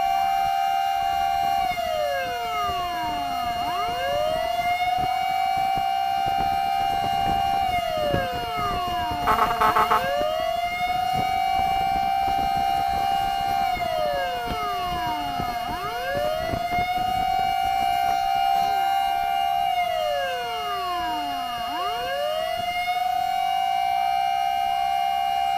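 Fire engine's wail siren cycling slowly, each cycle rising, holding high and sliding down about every six seconds, over a steady siren tone. About nine seconds in, a quick series of horn blasts cuts through.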